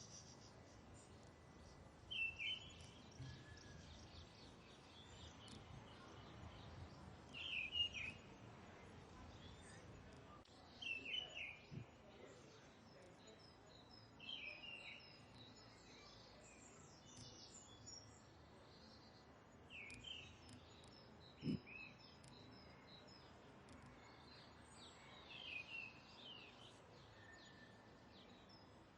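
Birds calling faintly over low background noise: a short call repeated every few seconds, with fainter high chirps between.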